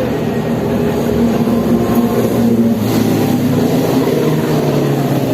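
A motor vehicle's engine running steadily, its pitch shifting about three seconds in.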